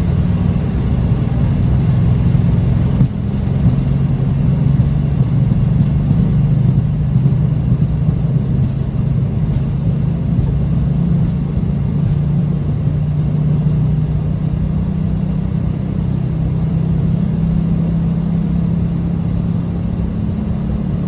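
Boeing 737 on its takeoff roll, heard from the flight deck: the engines run at takeoff thrust in a steady low hum over the rumble of the wheels on the runway.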